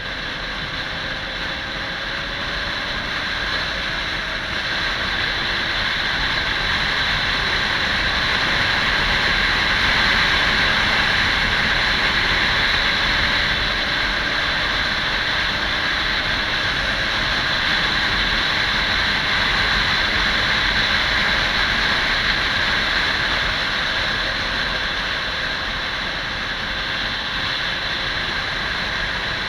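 Kawasaki 400 cc motorcycle under way: a steady rush of engine and wind noise with a faint engine note underneath, growing somewhat louder towards the middle.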